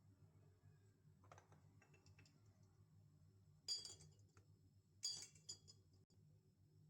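Mostly near silence with a few faint clinks and light taps of small objects being handled, in two short clusters a little past the middle and about a second later.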